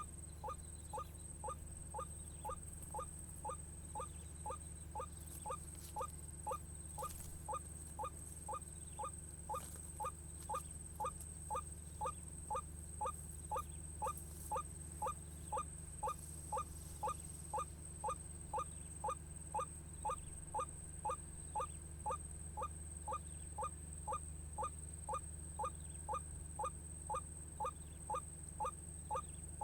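White-breasted waterhen call, repeated monotonously at about two short, falling notes a second, as used to lure the birds in.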